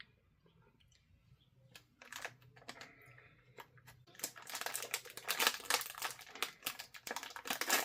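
A plastic snack wrapper crinkling as it is handled and torn open. Scattered crackles come first, then it turns louder and denser about four seconds in.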